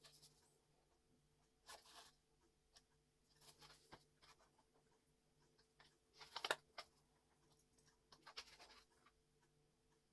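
Faint scattered scrapes and clicks of the vacuum cleaner's motor and plastic housing parts being handled during refitting, the loudest cluster about two-thirds of the way through.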